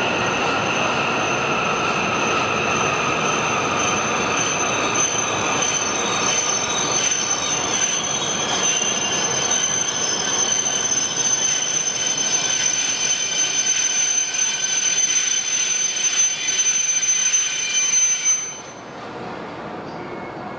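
E7/W7 series Shinkansen train running through the station: a steady rush of noise with a high, steady whine over it, dropping off sharply about eighteen seconds in.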